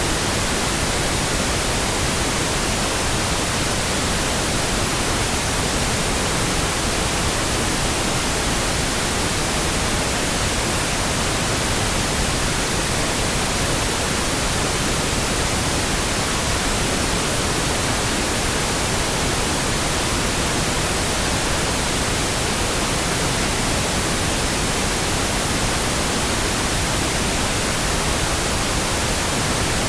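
Steady pink noise: an even, unbroken hiss with no changes, played as a sleep sound.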